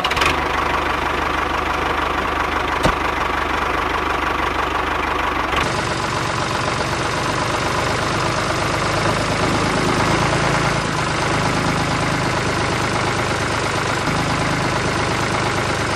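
Small engine of a home-made miniature water pump running steadily. About six seconds in, the sound changes and takes on a regular low pulse.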